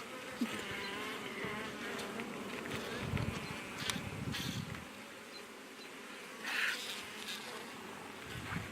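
Honey bees buzzing around an open hive: the steady, wavering hum of many bees, with a few light clicks and a brief rustle about two-thirds through.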